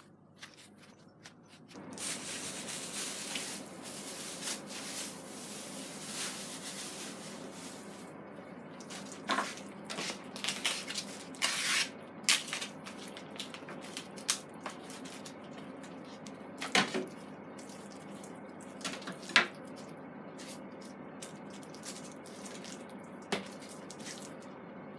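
Water running steadily, like a tap, starting about two seconds in, with scattered sharp knocks and clatter over it.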